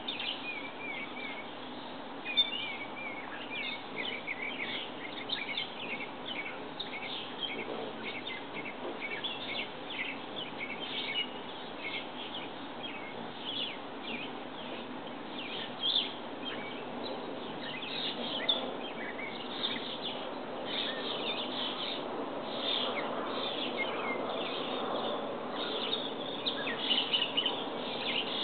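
Small birds chirping and calling again and again over a steady low background noise.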